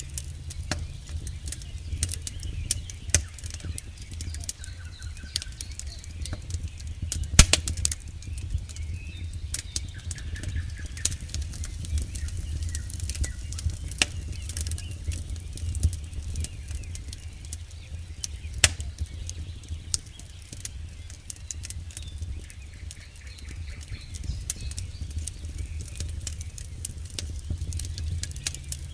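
Campfire burning, wood crackling with frequent sharp pops over a steady low rumble of the flames; the loudest pop comes about seven seconds in.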